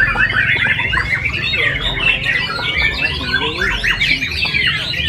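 Many caged songbirds singing at once in a contest chorus: dense, overlapping, fast whistled notes with no pause.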